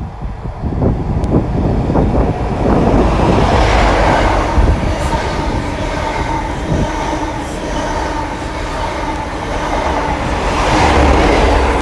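A CrossCountry InterCity 125 (HST) passing, its Class 43 diesel power cars' engines and wheels on the rails loud and steady. The noise swells as the front power car goes by, eases under the coaches, and rises again near the end as the rear power car passes.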